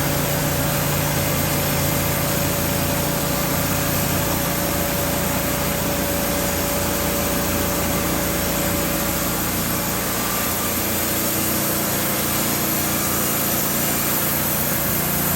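Wood-Mizer LT15 portable band sawmill running steadily, its band blade cutting lengthwise through a pine log. The machine noise cuts off abruptly at the very end.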